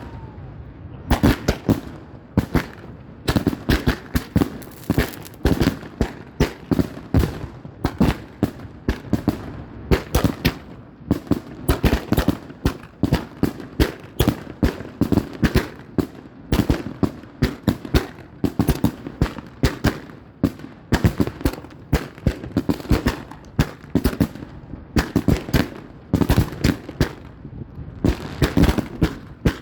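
Fireworks going off: clusters of sharp bangs and cracks in quick succession, one cluster after another with short gaps between.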